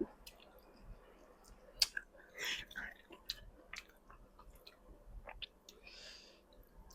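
A person chewing and biting food close to the microphone, eating boiled frogs, with many small wet mouth clicks and two short breathy bursts, about two and a half and six seconds in.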